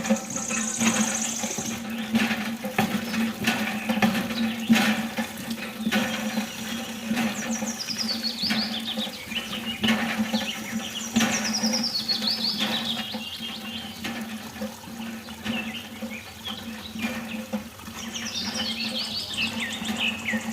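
Water running and splashing, with many small clicks. Runs of rapid bird-like chirps fall in pitch several times, over a steady low hum.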